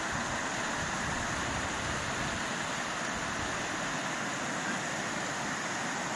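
Steady rushing noise of a mountain stream running through the gorge.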